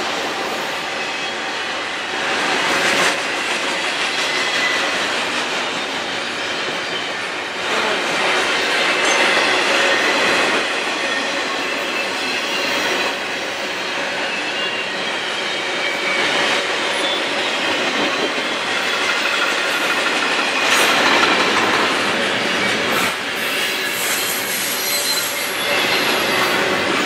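CSX freight train cars rolling past on the rails, their wheels squealing in several high steady tones over a constant clatter.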